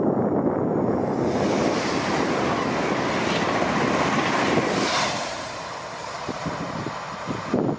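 PESA Dart electric multiple unit passing at speed: a rush of air and wheel-on-rail noise that builds for a few seconds, peaks about five seconds in, then falls away quickly as the train goes by.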